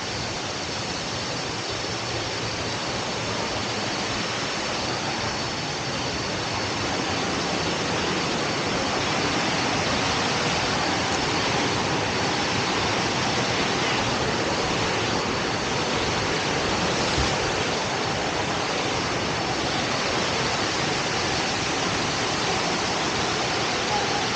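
Rushing water of a waterfall, a steady even roar that grows somewhat louder about a third of the way in.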